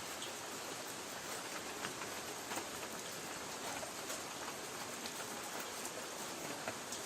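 Light rain falling on a tin roof: a steady hiss with scattered sharp drop ticks on the metal.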